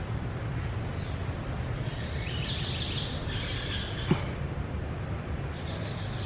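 Birds chirping in patches over a steady low rumble, with one sharp click about four seconds in.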